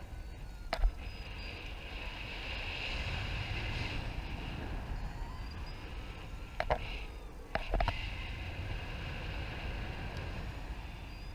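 Wind rushing over the microphone in flight, a steady buffeting rush, with a few sharp taps about a second in and again around seven and eight seconds in.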